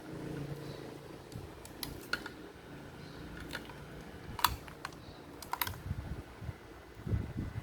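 Scattered sharp clicks and taps at an irregular pace, like small hard parts or tools being handled, the loudest about four and a half seconds in. A few low thumps come near the end.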